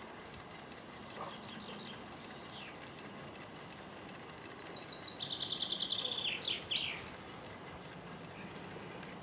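A small songbird sings: a few faint chirps, then about five seconds in a fast, high trill that ends in two quick downward-sliding notes, over steady background noise.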